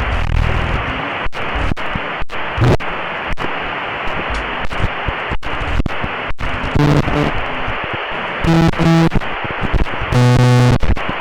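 Loud, harsh static-like noise, broken by brief sudden dropouts, with two short bursts of a buzzy electronic tone near the end.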